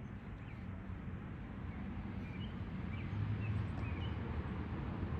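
Outdoor ambience: a steady low rumble with a few faint, short bird chirps between about two and four seconds in.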